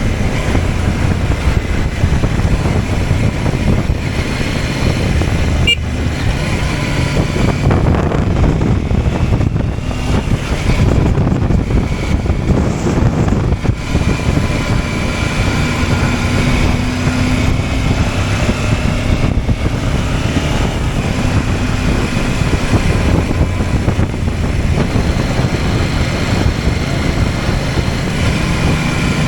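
CFMOTO 800MT's parallel-twin engine running steadily as the motorcycle is ridden.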